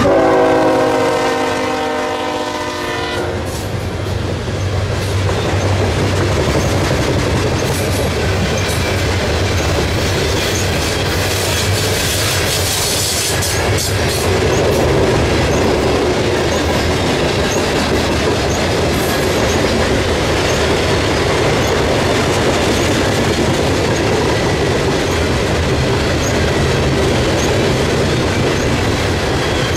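Nathan K5HL air horn on a Norfolk Southern GE ES44AC locomotive sounding a chord that cuts off about three seconds in. After it, a diesel locomotive's engine rumbles past, followed by a long train of open-top coal cars rolling by with a steady clatter of wheels on rail.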